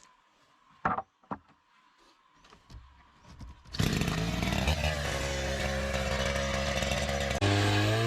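Two light knocks about a second in, then a small engine starts about four seconds in and runs steadily, its pitch stepping up near the end.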